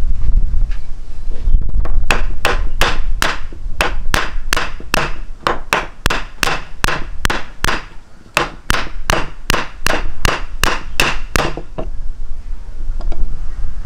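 A long run of sharp, evenly spaced knocks, about three a second, starting about two seconds in and stopping near the end, over a low wind-like rumble on the microphone.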